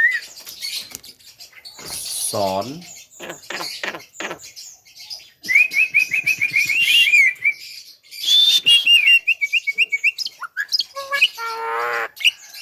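Black-winged myna (jalak kebo) calling: two fast runs of short, high chattering notes in the middle, then a lower, wavering, voice-like call near the end.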